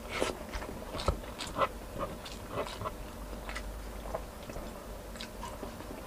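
A man chewing and eating chicken caldereta with his fingers, close to the microphone: irregular short clicks and smacks of chewing, with no speech.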